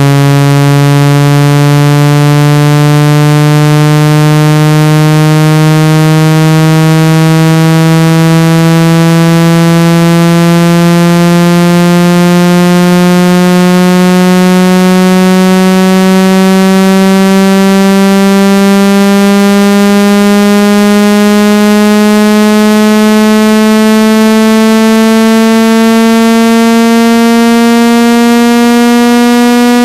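Loud, buzzy synthesized tone slowly and steadily rising in pitch: a speaker water-ejection sweep, played to vibrate trapped water out of a phone speaker or earphone.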